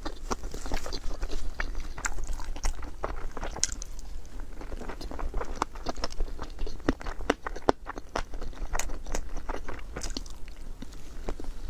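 Close-miked chewing and biting of food, with many irregular crisp, wet clicks and smacks from the mouth.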